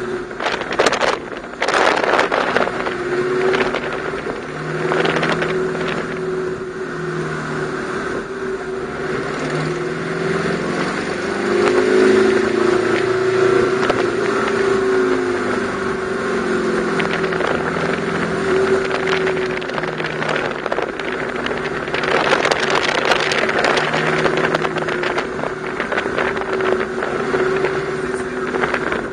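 Ferrari F430 Spider's V8 running in the open cabin, its pitch rising and falling again and again as the car accelerates and slows. Short rushes of noise come and go, loudest about 22 seconds in.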